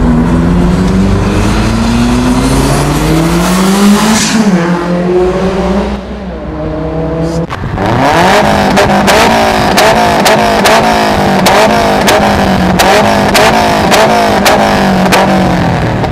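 Turbocharged Subaru Impreza WRX STI flat-four engine accelerating hard, its pitch climbing for about four seconds before dropping. Midway the revs fall and the engine goes quieter. Then it runs high again with a wavering pitch, cut by a rapid series of sharp cracks.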